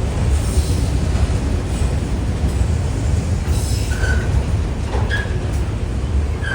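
CSX freight cars rolling past with a steady low rumble, and a few brief high wheel squeals in the second half.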